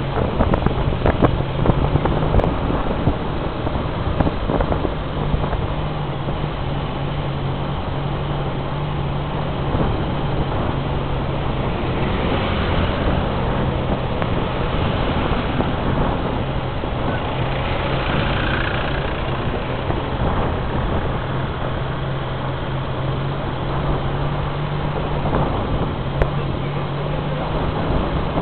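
Vehicle engine running steadily with a constant low hum, over wind and road noise, heard from a vehicle rolling slowly along the road.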